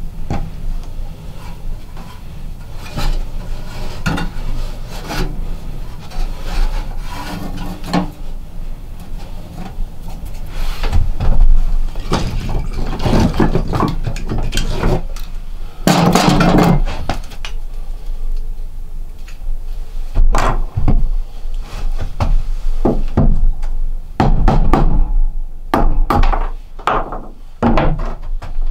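Irregular wooden knocks, clunks and scraping, as of wood being handled, set down and rubbed, with louder clattery stretches in the middle and near the end.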